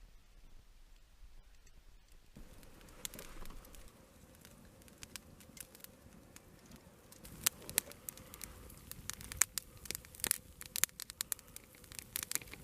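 Wood campfire crackling, with sharp, irregular pops from burning logs that begin a couple of seconds in and grow busier.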